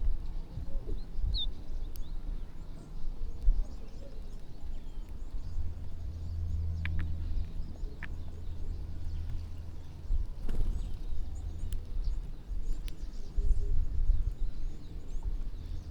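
A flock of small birds feeding, with faint scattered chirps and a few sharp clicks. All of it sits over a strong, uneven low rumble.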